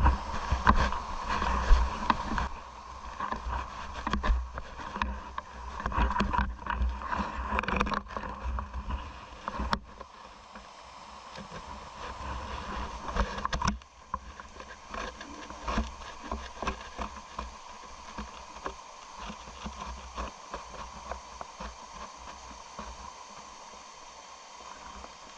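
Rushing water of a mountain trout stream, with frequent bumps and low rumble on the microphone. It is louder at first and drops suddenly about halfway through.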